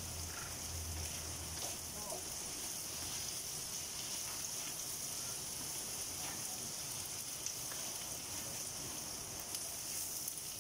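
Pork and shrimp stir-fry sizzling in oil in a steel wok over a gas burner: a steady hiss, with a few faint scrapes of a wooden spatula stirring.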